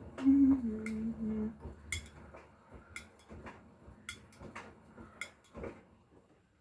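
A short low hum that drops in pitch, then a run of light, sharp clinks, mostly in pairs, that fade away near the end.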